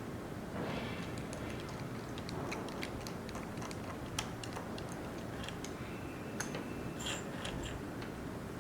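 Irregular small clicks and taps from handling the plastic parts of a Roomba robot vacuum during a battery swap, over a steady background hiss.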